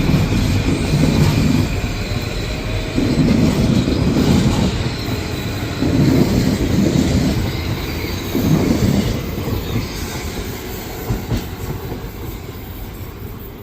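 Metro-North electric commuter train rolling through the station. Its wheels rumble over the rail joints in swells every couple of seconds, over a thin high wheel squeal. The sound fades steadily in the second half as the train moves away.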